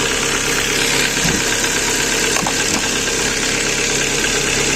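Ford Focus 2's 1.6-litre engine idling steadily, its power steering pump quiet with the reservoir refilled with fluid. The fluid had been lost through a leaking steering rack.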